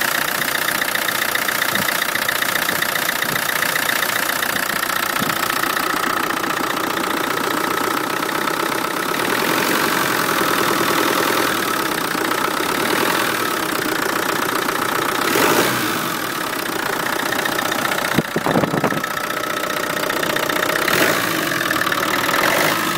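Land Rover Defender 300Tdi four-cylinder turbodiesel idling, with a fast, even pulsing noise from the intake that persists though the valve clearances have been checked and rechecked; the owner is unsure whether it is normal. A few brief louder moments come later on.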